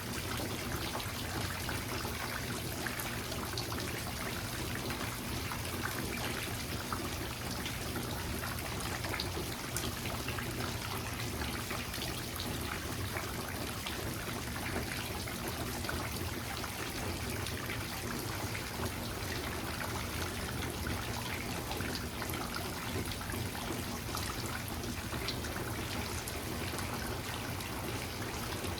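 Steady rain falling: an even hiss full of many small drop impacts, unbroken throughout.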